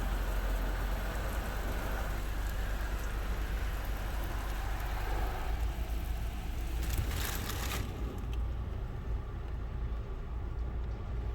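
Belanger FreeStyler in-bay automatic car wash running: water spray hissing onto a car over a steady low machine rumble. The spray swells briefly about seven seconds in, then cuts off about a second later, leaving only the low rumble.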